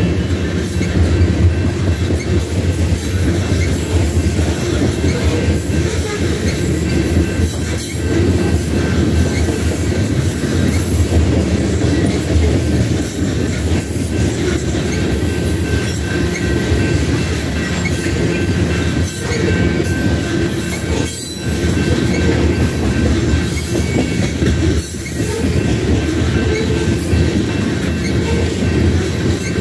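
Freight train of covered hopper cars rolling past at a grade crossing: a steady rumble and clatter of steel wheels on rail, with a thin high squeal over it. The sound dips briefly twice late on.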